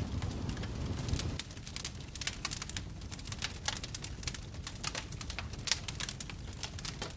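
Wood fire crackling, with many quick, irregular pops and snaps. A low rumble dominates for about the first second, then the sharp crackles take over.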